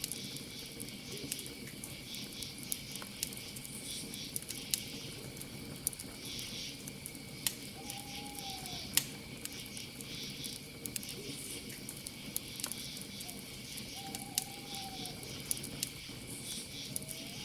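Campfire crackling, with sharp pops every second or so that are the loudest sounds, over a low steady rush of burning. Crickets chirp in pulses over a steady high insect trill. A short, slightly arched owl hoot sounds three times, about halfway through, later on and near the end.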